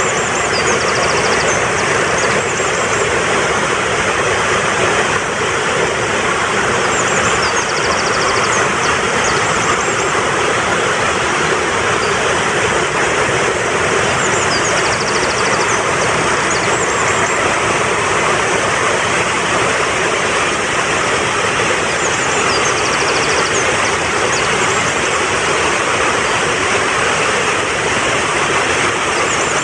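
Fast-flowing mountain stream rushing steadily. A high bird call of quick chirps ending in a rapid trill comes back about every seven to eight seconds over the water.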